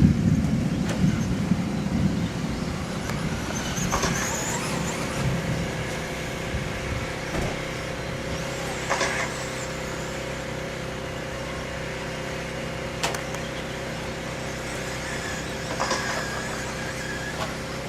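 1/10-scale electric 2wd stadium trucks racing on a dirt track: a high motor and gear whine swells up as trucks pass, about three times, over a steady hum, with a few sharp clicks from landings or knocks.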